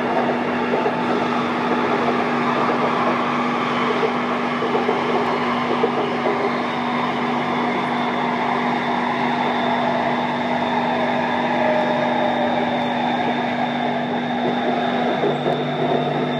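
BTS Skytrain electric metro train running between stations, heard from inside the carriage: a steady rolling rumble with a constant low hum. A thin high whine comes in about six or seven seconds in.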